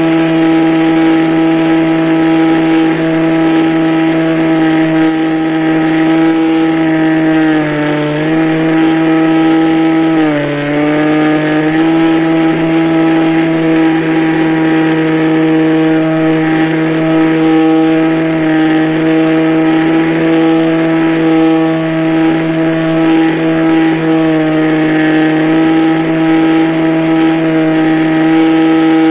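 Radio-controlled model airplane's motor running at a steady, high pitch, dipping briefly twice as the throttle is eased, then holding steady again.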